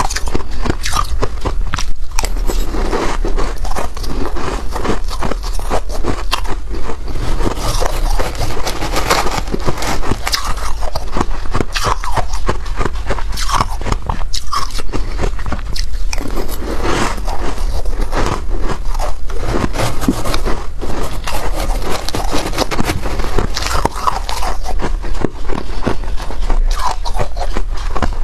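Close-up crunching and chewing of freezer frost: dense, crackly bites of packed frost and ice, with some scraping, going on without a break.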